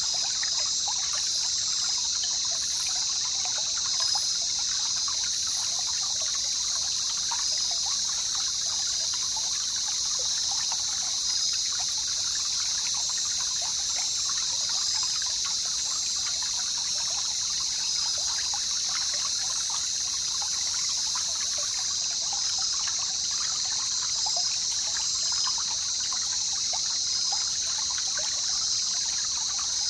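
Jungle river water trickling and babbling over a steady high-pitched drone, which is the loudest part of the sound.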